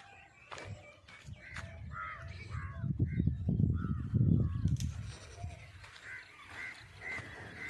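Birds calling in short, repeated crow-like calls, with a loud low rumble from about three to nearly five seconds in.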